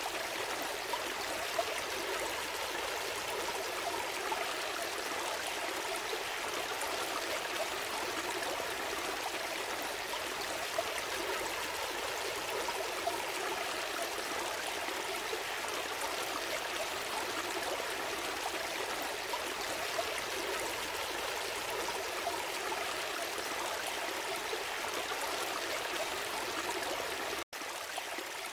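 Gentle stream flowing steadily, a continuous babble of water with a few small splashes. The sound cuts out for an instant near the end.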